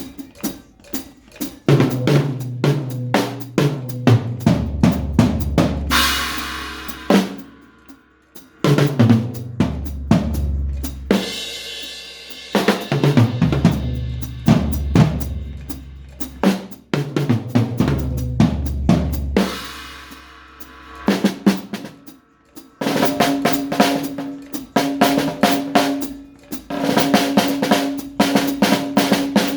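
Drum beat with fast kick, snare and hi-hat hits over long, deep bass notes, with cymbal crashes about six and twelve seconds in. A steady held tone joins the beat in the last quarter.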